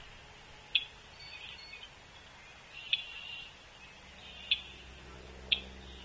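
Feeder birds giving short, sharp single call notes, one every second or two, over faint scratchy chatter. A low steady hum comes in about four seconds in.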